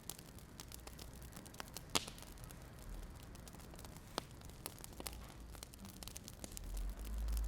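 Wood fire crackling: scattered sharp pops and snaps over a soft hiss, two louder pops about two and four seconds in, and a low rumble swelling near the end.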